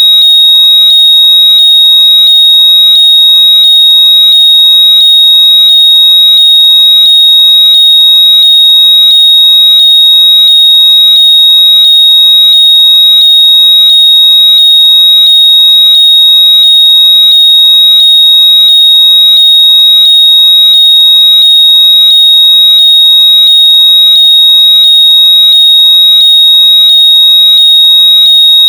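A very loud, steady high-pitched electronic tone with a faint pulse about twice a second: a locator noise played through wireless earbuds so they can be found by ear.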